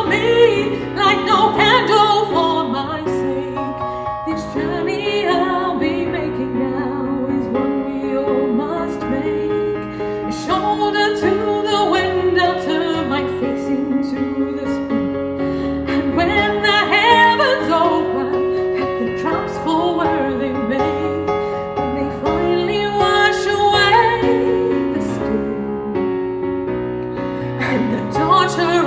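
A woman singing a slow, held ballad melody with vibrato over piano and orchestral backing.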